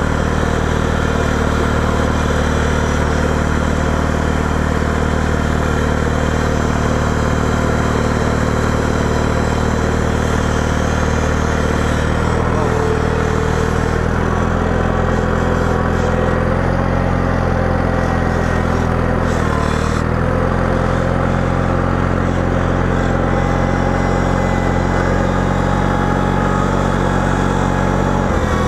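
Small garden tractor engine running steadily under load while plowing snow, its pitch sagging briefly about two-thirds of the way through before recovering.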